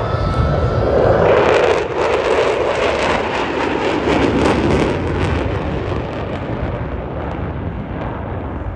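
Jet roar of a Thunderbirds F-16 making a low pass. The roar swells about a second in, stays loudest and crackling for the next few seconds, then slowly fades.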